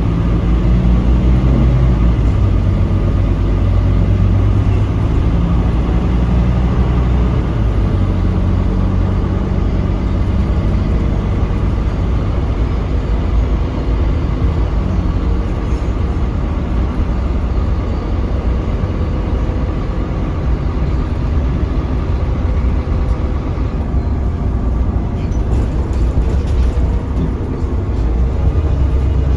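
Scania K310UB city bus's diesel engine running under way, heard from inside the cabin with road and tyre noise. The engine note shifts in pitch over the first several seconds, then settles into a steadier rumble.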